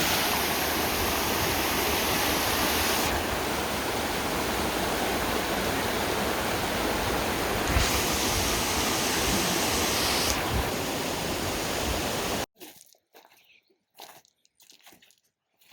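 Rushing water, a steady loud hiss, cutting off abruptly about twelve seconds in; only faint scattered sounds follow.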